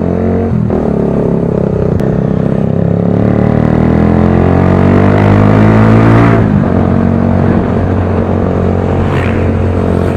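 Motorcycle with a loud aftermarket exhaust pipe accelerating, its engine note climbing steadily for about five seconds, then dropping suddenly about six seconds in and running on at a steady lower pitch.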